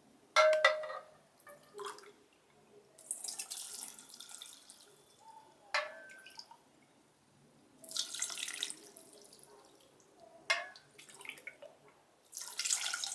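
Water poured from a cup into a microwave bowl of dry Maggi noodles, three pours a few seconds apart. Sharp knocks come between them, the loudest about half a second in.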